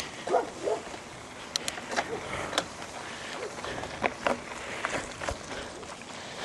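Trek Roscoe 8 mountain bike being ridden over a dirt trail: steady wind and tyre noise with scattered clicks and rattles from the bike. A dog barks twice near the start.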